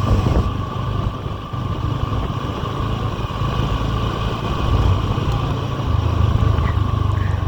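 Suzuki V-Strom SX 250's single-cylinder engine running at a steady speed, with a steady hiss of noise over it.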